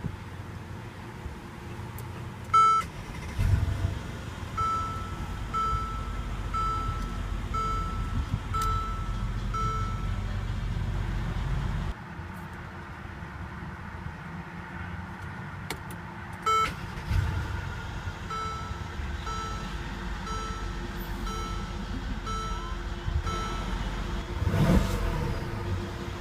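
A latch click followed by a car's warning chime, a single tone repeating about once a second, heard twice. Both times it plays over a low steady rumble. Near the end, the 2014 Mercedes-Benz SL550's engine rises in pitch.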